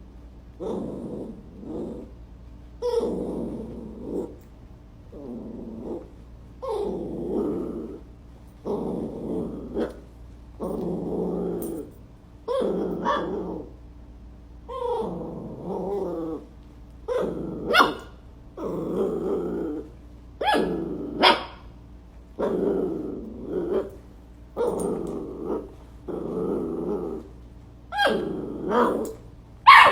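A dog growling in repeated bursts of about a second each, one roughly every two seconds, with a few sharper barks mixed in.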